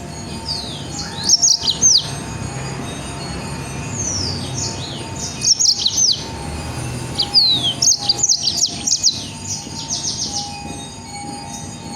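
Songbird singing in about four loud bursts of rapid, sharp downslurred whistles, the dense 'shooting' (nembak) style of song.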